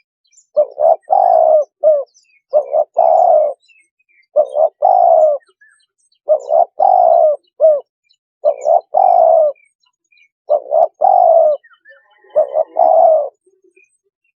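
Spotted dove cooing: seven repeated phrases about every two seconds, each a couple of short coos followed by a longer falling coo, with faint chirps of small birds behind.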